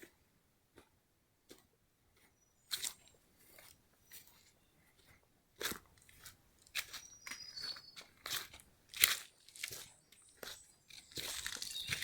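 Footsteps crunching through dry leaf litter and twigs: irregular crackling steps, sparse at first and coming thicker in the second half.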